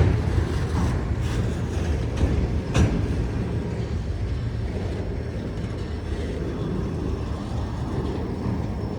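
Freight train rolling past on the track with a steady low rumble, a sharp clank about three seconds in, and the rumble easing off slightly toward the end.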